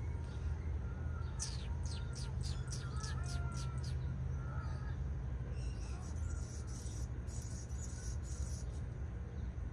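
Small songbird calling: a quick run of about ten sharp, falling high notes, about four a second, then a few seconds later a dry, very high rapid chatter. Under it runs a steady low rumble with faint distant chirps.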